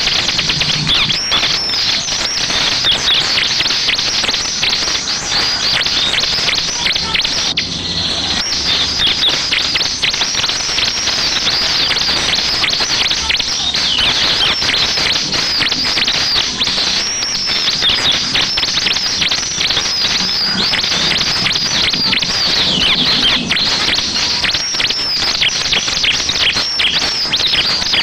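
Bar-winged prinia (ciblek) song: a dense, unbroken stream of rapid, high-pitched chirps and trills.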